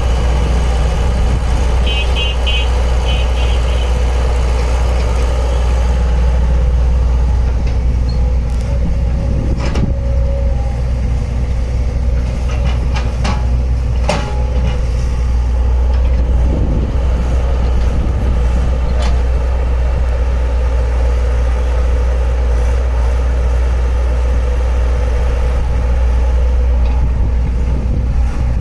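Engine of heavy earth-moving machinery running steadily with a deep, even hum. A quick series of short high beeps sounds about two seconds in, and a few sharp knocks come later.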